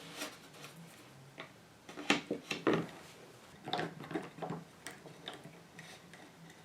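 Scattered light clicks and knocks of hand tools and the wooden radio faceplate being handled while its lifted veneer is glued and held down, busiest about two seconds in and again around four seconds.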